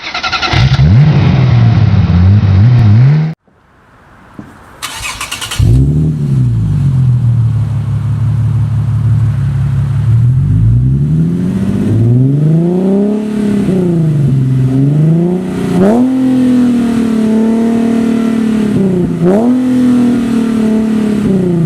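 Nissan 370Z's 3.7-litre V6 through a resonated axle-back exhaust. The engine is revved for about three seconds, then cuts off suddenly; about five seconds in it is cranked, catches and settles to a steady idle, and from about twelve seconds on it is blipped up and down several times, the pitch dropping sharply as each rev falls away.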